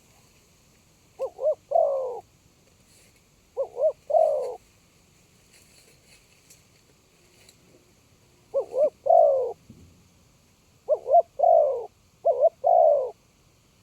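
Spotted dove cooing: five phrases, each two short coos followed by a longer falling one, with pauses of one to four seconds between phrases.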